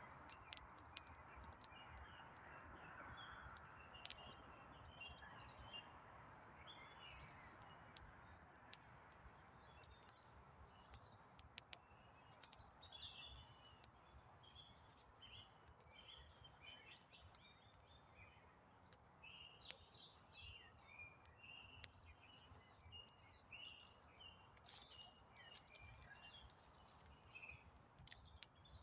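Faint campfire of burning wood crackling with scattered sharp pops, while small birds chirp and twitter, busier in the second half.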